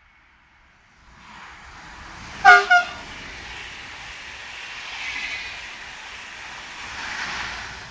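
Electric multiple-unit passenger train passing at speed, sounding two short horn toots about two and a half seconds in. The noise of its wheels on the rails and the rushing air rises as the train arrives and stays steady while the carriages go by.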